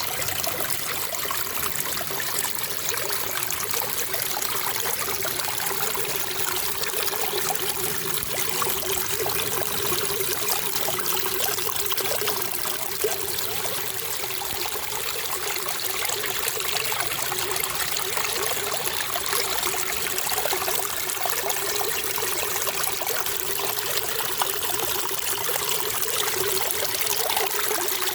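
Water running and trickling steadily, an even splashing wash with no pauses or changes.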